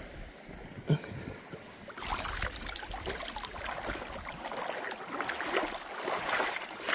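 Lake water splashing and lapping at the shore, busier from about two seconds in, with a single sharp knock about a second in.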